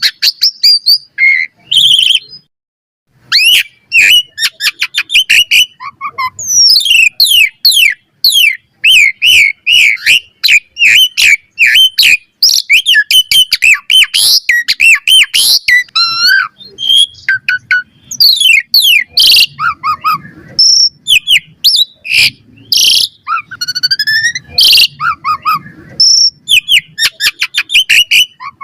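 Jalak suren (pied starling) singing a fast, varied string of whistles, chirps and clicks, with a short pause about two and a half seconds in.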